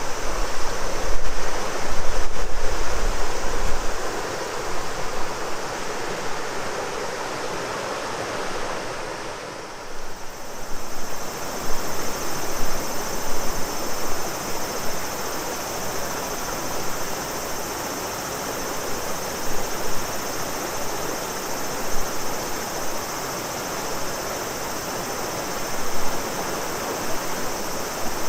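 Shimanto River water rushing steadily, with a steady cicada drone above it that is stronger from about ten seconds in. Wind buffets the microphone in the first few seconds.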